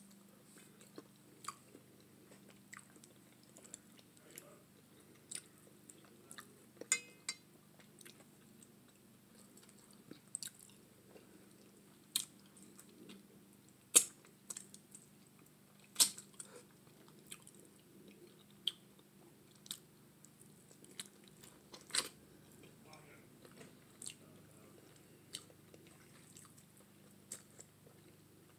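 Close-miked chewing and biting of curried neck bones, eaten by hand. Irregular sharp wet mouth clicks run throughout, a few much louder than the rest.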